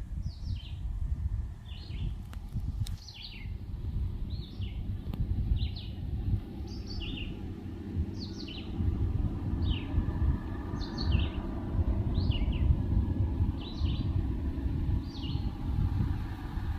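A songbird repeating a short high chirp about once a second, each a quick pair of notes dropping in pitch, over a louder, uneven low rumble of outdoor noise.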